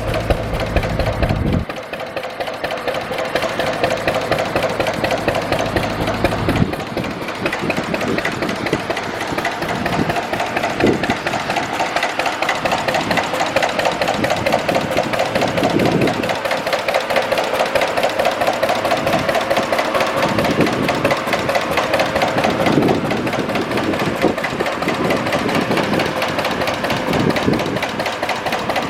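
Natural gas engine running steadily on the well's own coal bed methane, with a quick, even knocking beat. A low rumble underneath cuts off about two seconds in.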